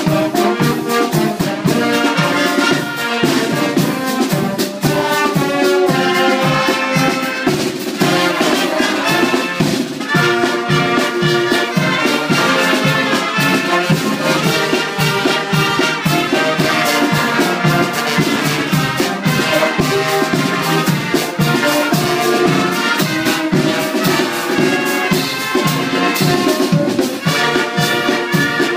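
Music with brass instruments, trumpets and trombones, playing over a steady beat.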